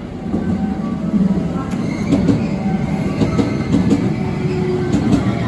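JR West commuter electric train running in along the platform, its wheels and motors rumbling. From about two seconds in, the wheels click over the rail joints, with a brief high squeal.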